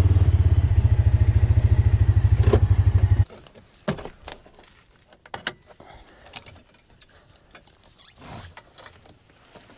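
Side-by-side UTV engine running with a steady low pulse, then shut off abruptly about three seconds in. A few small clicks and knocks follow.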